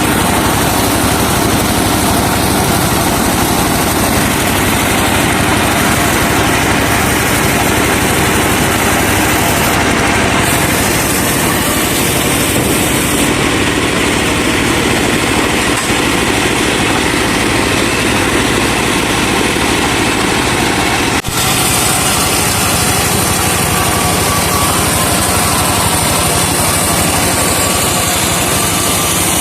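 Engine of a truck-mounted sawmill running steadily under power, with one brief dip in level about two-thirds of the way through.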